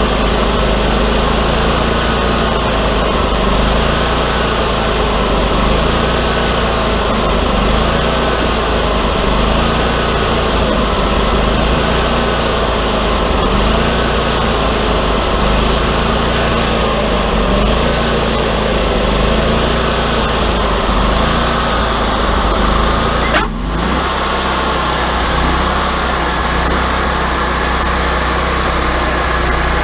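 Wood-Mizer LT40 sawmill running steadily, its pitch wavering up and down about every two seconds. About 23 seconds in the sound dips briefly, then goes on steadier without the wavering.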